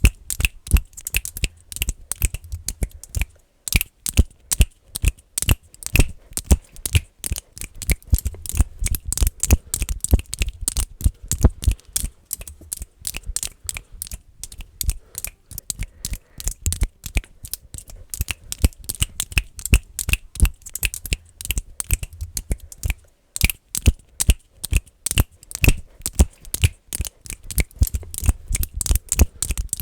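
Fast, aggressive finger clicking made close to the microphone: a dense, irregular run of sharp clicks, several a second, with short breaks about three and a half seconds in and again about twenty-three seconds in.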